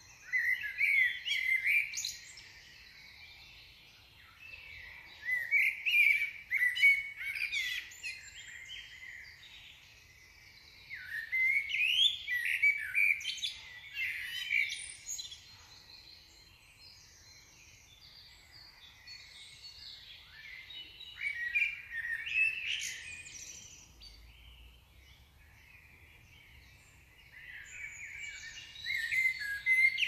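A songbird singing in repeated high-pitched phrases of two to four seconds, with pauses of a few seconds between them, five phrases in all.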